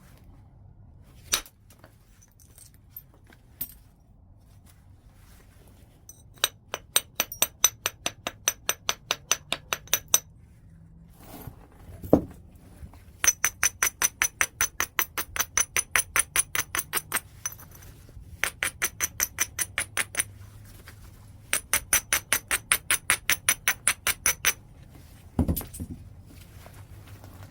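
Flintknapping on a large piece of white chert. Three heavier percussion blows land about a second in, near the middle and near the end. Between them come three runs of quick, light, evenly spaced clicks on the stone, about five a second, each with a high glassy ring.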